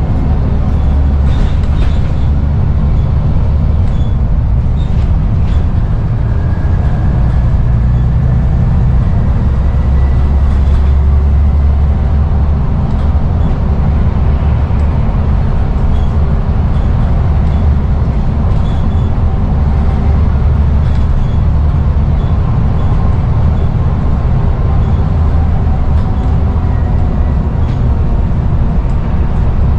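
Scania N94UD double-decker bus diesel engine running under way: a steady low drone, its pitch rising and falling slowly as the bus pulls along.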